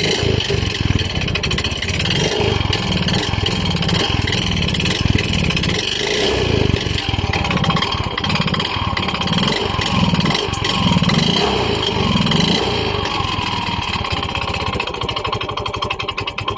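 Yamaha Mio i 125's single-cylinder four-stroke engine running with a loud, fast knocking from the engine, which the mechanic suspects is piston slap or a worn connecting rod, the two sounding alike.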